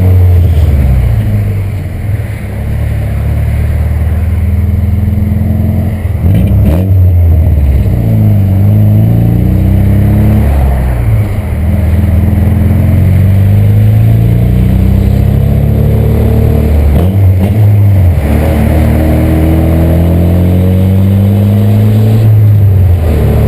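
Volkswagen Santana's AP 2000 four-cylinder engine and exhaust with a deep rumble while driving, the pitch climbing under acceleration and falling back several times as it changes gear.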